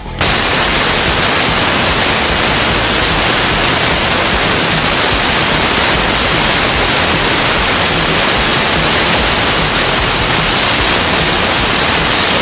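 Kerosene and nitrous oxide liquid bipropellant rocket engine firing on a static test stand: a loud, steady roar that cuts in suddenly right at the start and holds even throughout.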